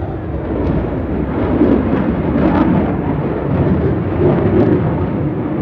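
Jet aircraft engine roar passing overhead: a loud, steady rumble.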